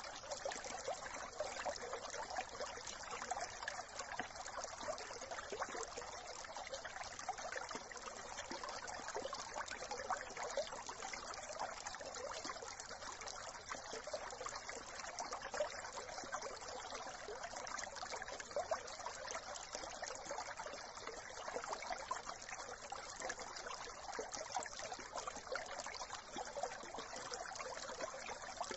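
A brook running and trickling steadily, an even, unbroken babble of flowing water.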